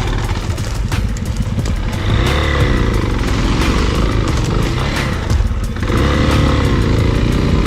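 Spark SP250D-1 pit bike's 250 cc single-cylinder four-stroke engine being ridden off-road, the revs rising and falling several times as the throttle is worked over rough ground. Sharp knocks and rattles are scattered through it.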